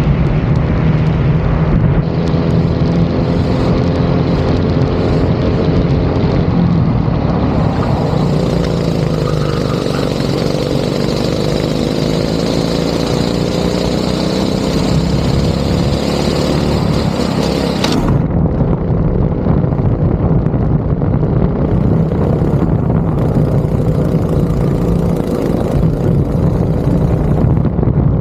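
Go-kart engine running hard on track, its note repeatedly rising under acceleration and falling off into corners.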